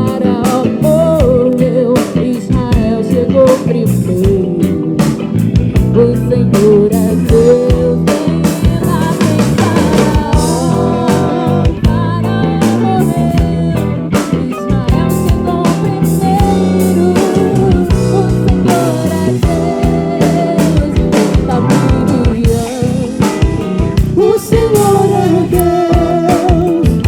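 Live band music: drum kit, bass, keyboards and electric guitar playing a steady groove, with a wavering lead melody line above it.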